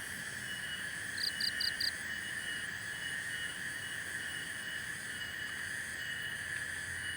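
Steady chorus of frogs and insects trilling in several high pitch bands, one of them pulsing. About a second in, four quick high chirps stand out as the loudest sound.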